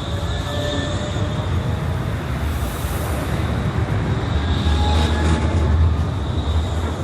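Vossloh light rail train running through the station: a steady low rumble with a thin high-pitched whine over it, growing louder about five seconds in.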